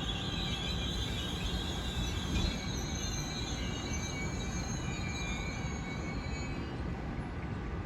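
Train running past on steel rails: a steady rumble of wheels on track, with high, wavering squeals over it that fade near the end.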